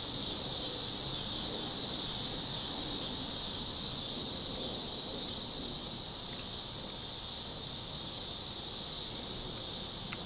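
Steady outdoor insect chorus, an even high-pitched drone that eases slightly in the second half.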